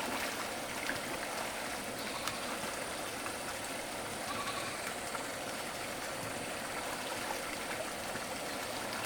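Steady rush of running water, with a faint goat bleat about four and a half seconds in.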